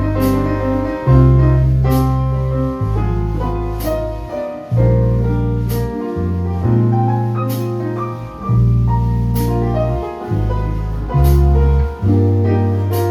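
Jazz piano playing an instrumental passage after the last sung line: chords over deep, held low notes that change every second or two.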